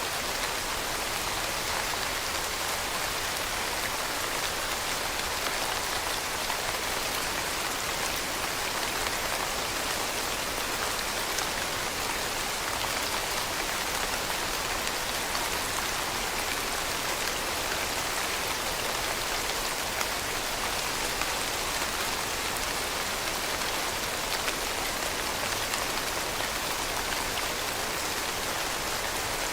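Steady rain falling, an even hiss of many small drops hitting a surface, with no let-up or change.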